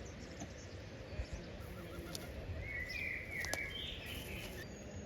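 Ambient background noise with a few short bird calls about halfway through and a single sharp click just before them.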